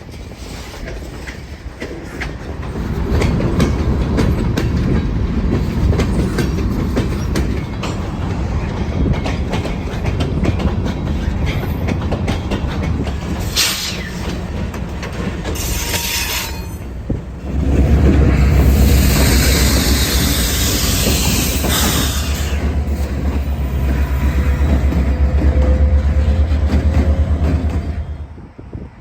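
Freight train rolling slowly on jointed track: wheels clicking over rail joints with brief high wheel squeals. About two-thirds through, a much louder low rumble sets in, then drops away suddenly just before the end.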